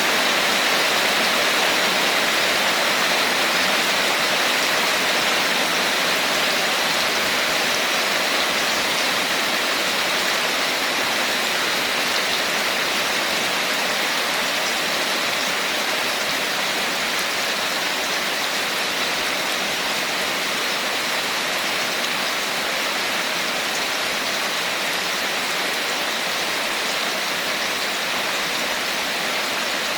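Steady rain falling, a continuous even hiss with no thunder or distinct drips standing out.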